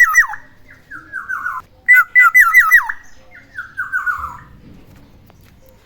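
Black-naped oriole calling: two loud bouts of quick repeated notes, each note dropping in pitch, each bout trailing off into a run of falling slurred notes. The calls stop about four and a half seconds in.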